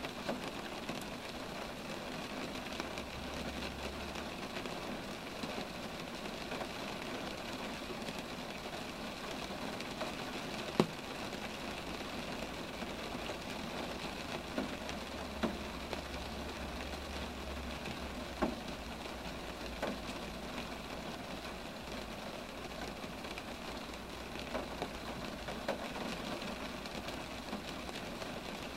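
Steady rain falling, with occasional heavier drops striking sharply, the strongest about ten seconds in. A low rumble sits underneath at times.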